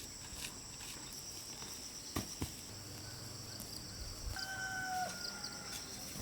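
Quiet rural outdoor ambience with a steady high-pitched drone. Two light knocks come a little after two seconds in, and a single held call, dropping at its end, sounds about four seconds in.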